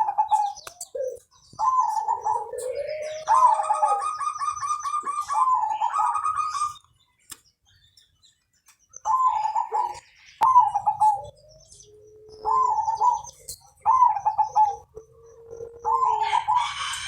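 Zebra dove (perkutut) cooing in repeated short phrases, with a fast rolling trill in the first few seconds and a pause of about two seconds midway before the phrases resume.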